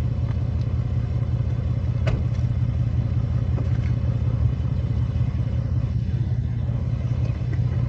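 Ford Mustang's engine idling with a steady low rumble, and a faint click about two seconds in.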